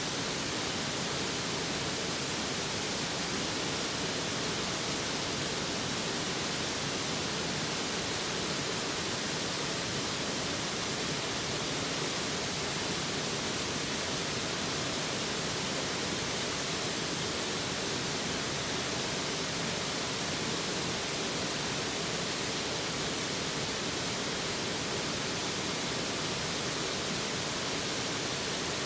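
Mountain stream rushing close by: a steady, even hiss of flowing water with no change.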